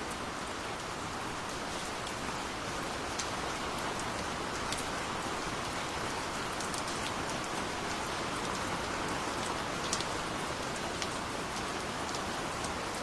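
Steady rain falling, an even hiss with scattered sharp drip ticks of individual drops.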